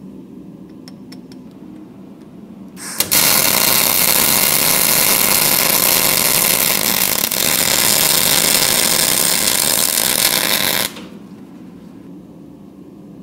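A power grinder grinding steel: a loud, even rasping hiss that starts abruptly about three seconds in and stops abruptly about eight seconds later, over a steady low hum.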